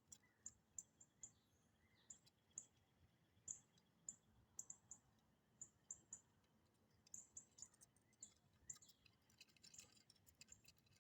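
Near silence with many faint, short, high-pitched bird chirps coming irregularly.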